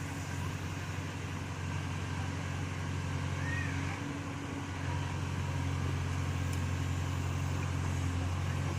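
Backhoe loader's diesel engine running steadily, getting slightly louder about five seconds in.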